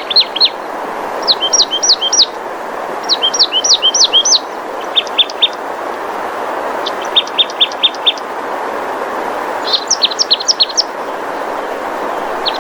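Birds singing: short, quick series of high chirping notes, repeated every second or two, over a steady rushing background.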